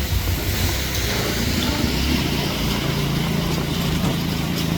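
A motor vehicle engine running close by: a steady low rumble, with a low, even engine tone setting in about three seconds in.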